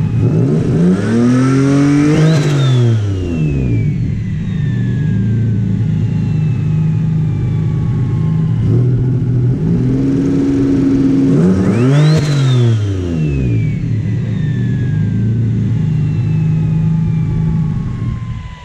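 Subaru EG33 3.3-litre flat-six with a big turbo idling and revved twice, about a second in and again about ten seconds in. Each rev brings a high whine that rises sharply with the revs and then falls slowly for several seconds as the turbo spools down.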